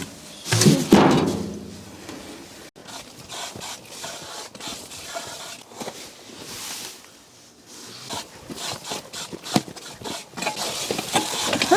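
Scraping, rubbing and scattered knocks of sand being shifted and tipped from a wheelbarrow, with a short louder sound about a second in.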